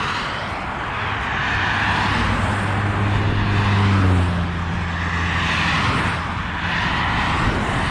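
Fast road traffic passing close by on a busy main road, its tyre noise swelling and fading as vehicles go past. A low, steady engine drone runs through the first half and stops about four seconds in.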